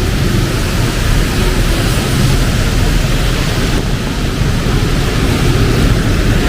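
Heavy rain falling, a steady loud hiss, with a low rumble of street traffic underneath.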